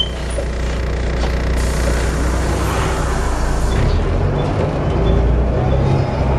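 Volvo B7TL bus engine running under way, heard on board as a steady low drone through its Allison automatic gearbox; the engine note changes about four seconds in, and a faint rising whine starts near the end.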